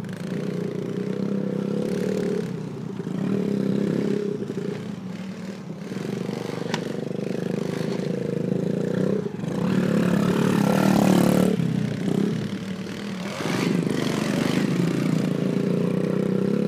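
Small motorcycle engine running, its note swelling and fading several times as it is throttled up and eased off. The loudest revving comes about ten seconds in, with the pitch sweeping up and down.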